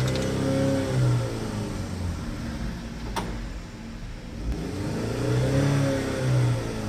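2013 Chevrolet Equinox engine being revved twice, each rev rising and falling back in pitch, with a single sharp click between the two revs.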